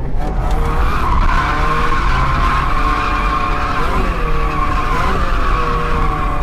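Mazda MX5 1.6 sliding in a sustained drift, its tyres squealing steadily from about a second in, while its four-cylinder engine runs at high revs, the pitch wavering up and down.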